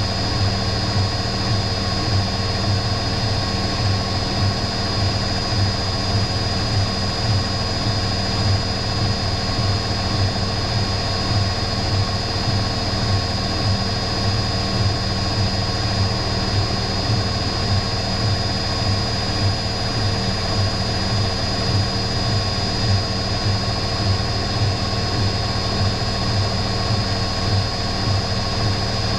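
Electrolux EW6S404WU washing machine running steadily with a continuous whirring drone and a high, constant whine over a pulsing low hum, as of the drum spinning at speed.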